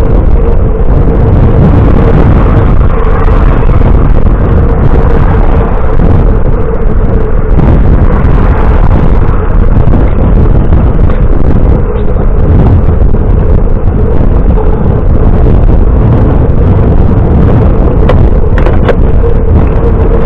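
Loud, steady wind and road rumble on a camera carried along on a moving bicycle, with a thin steady hum underneath.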